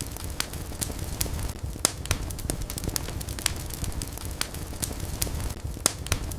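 Wood fire burning in a fireplace, crackling and popping with sharp snaps at irregular intervals, several a second, over a low steady rumble of flames.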